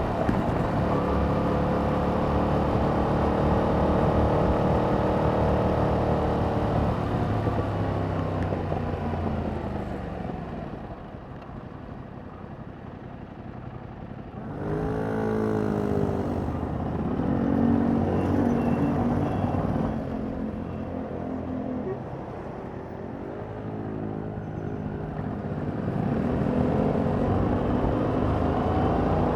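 2021 Yamaha MT-07's 689 cc parallel-twin engine on its stock exhaust, heard while riding. It runs steadily, then its pitch falls as it slows and goes quiet for a few seconds around the middle. After that it rises again in several accelerations, the last one climbing near the end.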